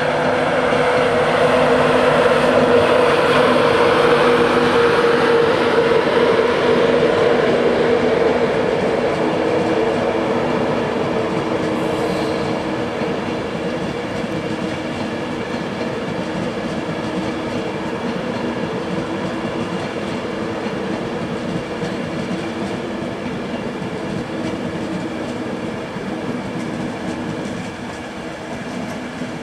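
East Coast InterCity 225 train, a Class 91 electric locomotive hauling Mark 4 coaches, running slowly past along the platform. A steady electric hum sits over the rolling of the coaches and sinks slightly in pitch and level over the first several seconds as the locomotive draws away.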